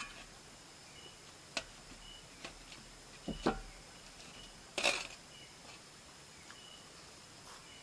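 Eating instant noodles up close: a few short mouth smacks and slurps, the loudest around five seconds in. Underneath is a faint, short, high chirp that repeats about once a second.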